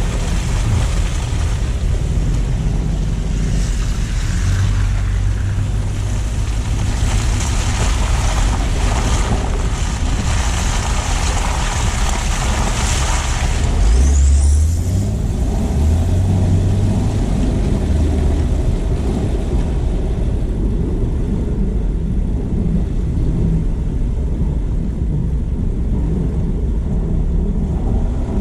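Car driving on snowy city streets: steady tyre and road noise under a low engine rumble. A hiss from the tyres drops away about halfway through, where a brief louder low rumble comes in.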